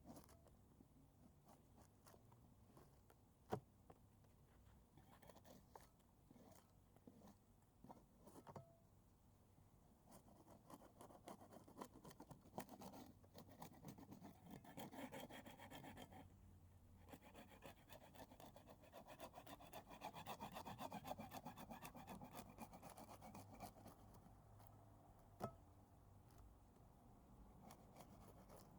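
Hand scraper scraping weather-damaged paint off wood in quick, repeated strokes, faint at first and heavier in the second half, with a short lull in the middle. Two sharp clicks, one a few seconds in and one near the end.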